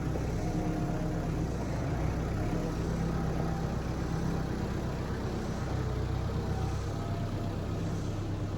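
Tractor engine running steadily, its pitch shifting slightly now and then.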